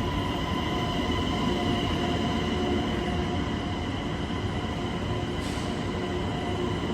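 Chinese high-speed bullet train at a station platform: a steady rumble with a constant whine over it.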